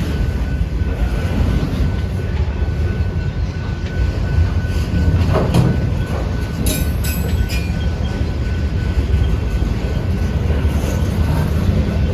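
Freight train cars rolling past on the rails, a steady rumble with a faint continuous wheel squeal. A few sharp clicks and metallic screeches come about halfway through.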